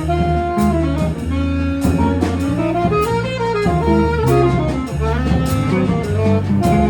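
Jazz quartet playing live: a horn holds long melody notes over a bass line and drum kit with steady cymbal strokes.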